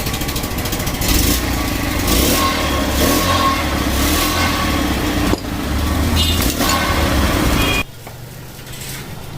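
Mahindra Centuro 110 motorcycle engine running and revved in a few short surges, with a fast mechanical rattle: the 'bad noise' that the mechanic puts down to the timing chain, push rods and a worn chain guide. The engine sound drops away sharply near the end.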